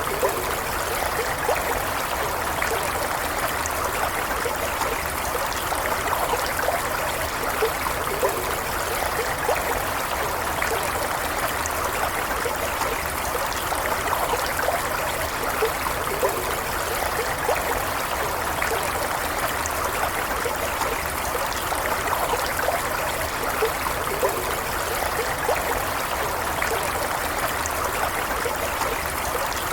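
A stream running steadily, water flowing and trickling with small bubbling splashes.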